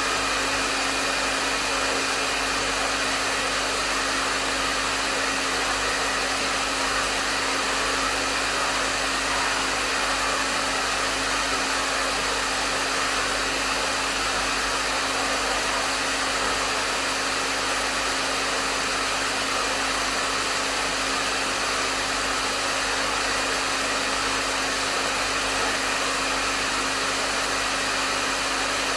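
Hair dryer running continuously: a steady rush of blown air with a constant motor hum under it, never changing.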